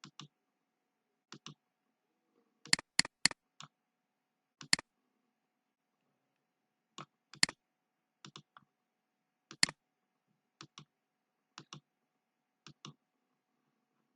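Sharp, isolated clicks, many coming in pairs a fraction of a second apart, scattered irregularly with quiet gaps between them.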